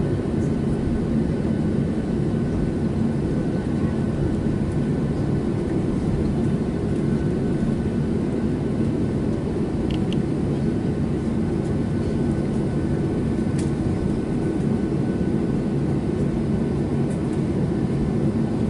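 Steady engine noise heard inside the cabin of a Boeing 737-700 with its CFM56-7B turbofans running: a constant low roar and hum with a faint high steady whine over it.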